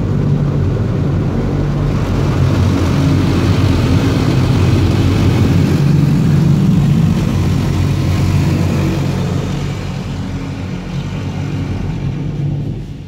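High-pressure rinse jets of a LaserWash G5 touchless car wash spraying against the sides of a van, heard from inside the cabin: a loud, steady hiss over a low rumble as the water hits hard enough to vibrate the body. It eases off a little near the end.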